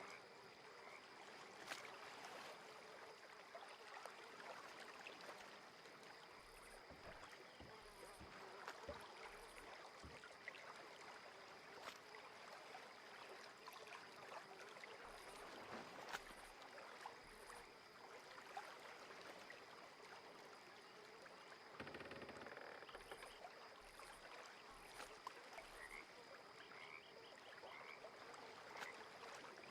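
Faint lakeside ambience: frogs calling over a steady background hiss, with a constant high tone and scattered small clicks.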